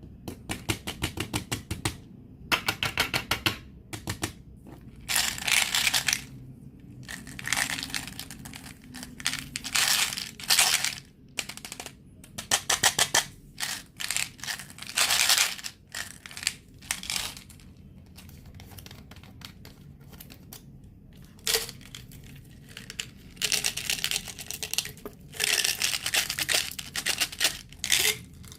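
Plastic candy wrappers crinkled and torn open close to the microphone. There are fast crackling clicks at first, then repeated bursts of crinkling and tearing, quieter for a few seconds past the middle.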